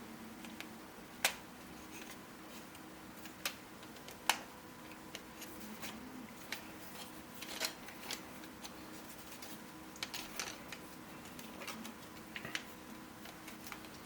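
3D-printed plastic puzzle pieces clicking and knocking as they are handled and snapped together: a sharp click about a second in, another about four seconds in, and scattered lighter ticks, over a faint steady hum.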